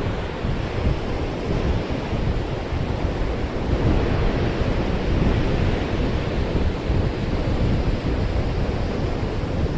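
Ocean surf washing onto a beach, with wind buffeting the microphone in a steady low rumble.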